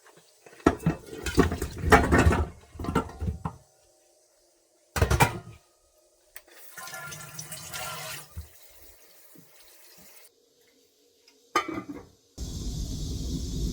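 Water running and splashing in several short separate bursts, the longest and loudest in the first few seconds.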